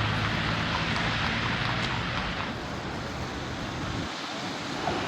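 Steady city street noise: a continuous hiss of passing traffic, with no single event standing out.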